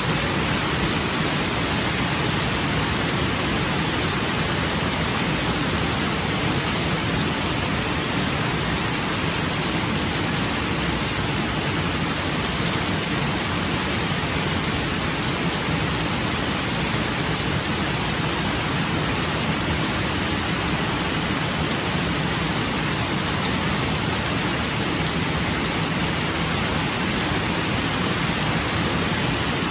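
Steady rain falling, an even, unbroken hiss that neither builds nor lets up.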